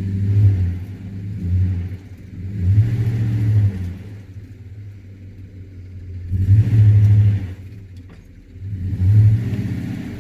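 Pickup truck engine revving hard in repeated surges, about five times, falling back between them, as the truck strains to pull down an old building.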